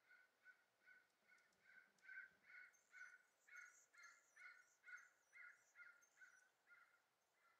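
Faint bird calling over and over, about two calls a second in an even series, with higher, thin chirps joining in through the middle.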